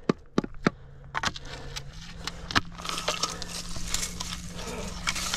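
Crunching and scattered sharp clicks of dry brush, gravel and dirt being disturbed, a few separate clicks at first, then a denser, louder crackle from about two seconds in.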